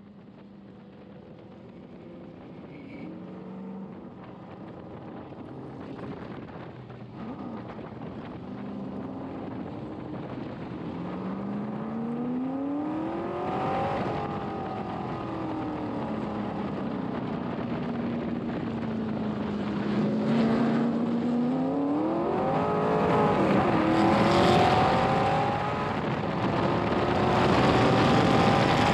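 1966 Corvette race car's V8 heard from the cockpit under racing load, its pitch climbing from about 11 to 14 seconds in, falling back, then climbing again with a short drop near 23 seconds as a gear changes. The whole sound grows steadily louder.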